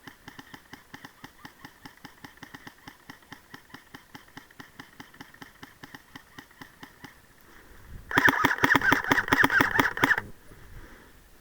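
Faint, even mechanical ticking at about six ticks a second, then a loud rapid rattle lasting about two seconds near the end.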